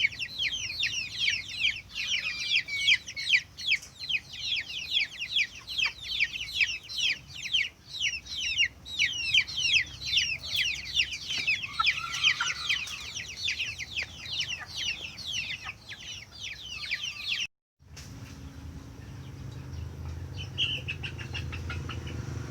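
Chicks peeping without pause, many short high calls overlapping, until the sound cuts off suddenly about 17 seconds in. After the cut, a low steady hum with a single brief peep.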